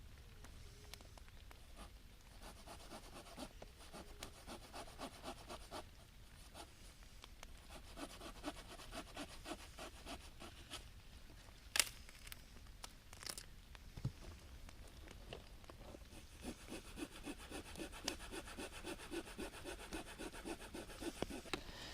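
Hand saw cutting through wood for the campfire in steady back-and-forth strokes, in two runs with a quieter spell between them broken by a couple of sharp clicks.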